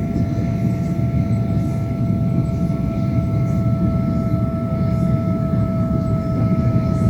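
A passenger train in motion, heard from inside at an open window: a steady rumble of the wheels on the rails, with a steady whine that drifts slightly lower in pitch.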